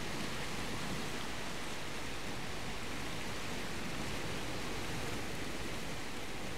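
Steady rushing wash of surf along a rocky shore, an even noise with no separate events.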